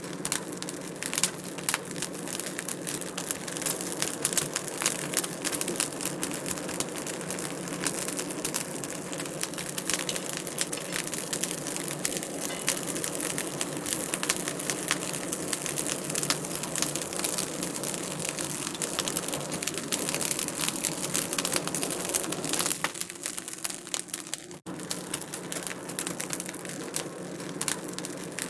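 Wood fire crackling in a fireplace: a steady stream of small pops and snaps, dipping briefly quieter a little over twenty seconds in.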